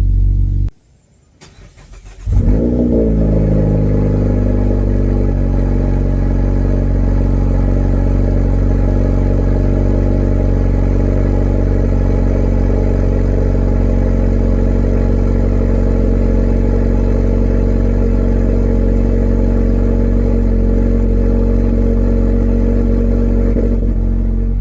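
A 2024 Mazda 3's 2.5-litre four-cylinder cold-starting through a Borla axle-back exhaust, heard from inside the cabin. It fires about two seconds in with a brief flare, the revs fall back over a couple of seconds, and it settles into a steady cold idle.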